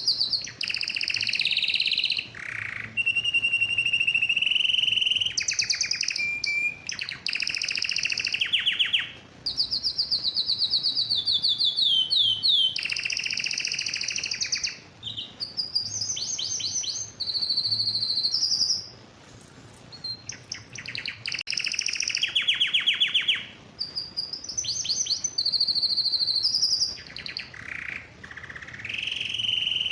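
Domestic canary singing: a long song of fast, high trills and rolls in phrases one to three seconds long, some ending in quick falling sweeps, with brief pauses between them. This is a male's vigorous breeding-condition song, used to bring a hen into mating readiness.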